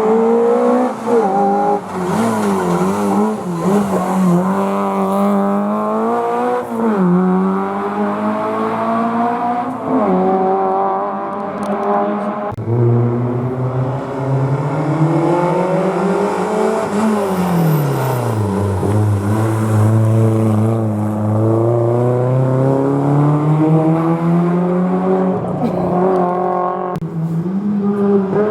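Historic rally car engines working through a hairpin bend. The engine note drops as a car slows into the bend, then climbs repeatedly as it accelerates away. About halfway through, the sound changes abruptly to another car doing the same.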